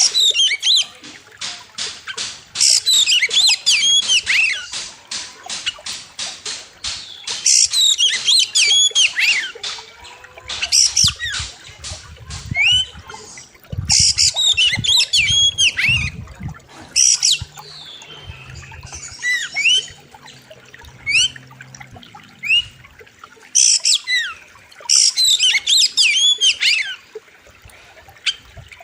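Oriental magpie-robin singing in loud bursts every few seconds, each made of rapid, sweeping high whistles mixed with harsh rasping notes. A quick run of fast repeated notes opens the song.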